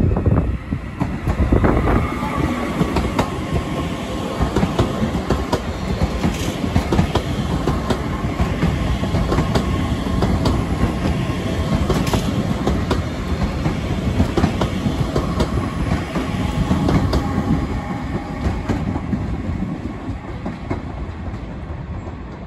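Northern CAF Civity multiple-unit train running past at low speed, with a steady rumble and a faint whine, and wheels clacking over rail joints and pointwork. It fades slightly as it pulls away near the end.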